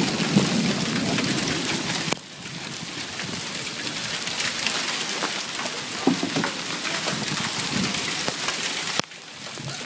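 Heavy rain pouring down and pattering hard on surfaces during a hailstorm, with scattered sharp ticks. The level drops abruptly about two seconds in and again near the end.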